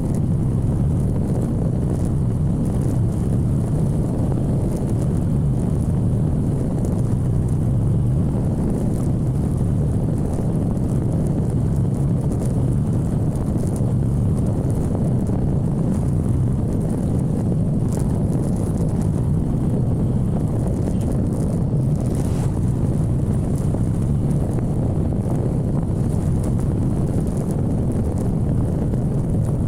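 Motorcycle engine running steadily while riding at an even pace, mixed with wind rushing over the microphone.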